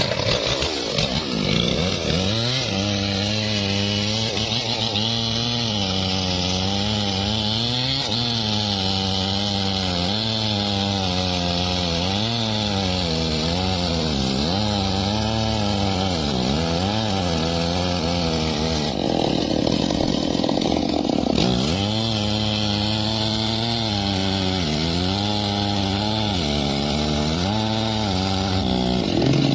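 Chainsaw running while cutting wood, its engine pitch rising and falling over and over as the chain bites into the cut and frees. About two-thirds of the way through it turns rougher and noisier for a couple of seconds.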